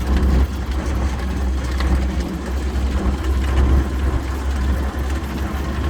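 Diamond T half-track's six-cylinder gasoline engine running steadily as the vehicle drives, with a deep, even drone and light rattling from the vehicle. It is heard from aboard the vehicle.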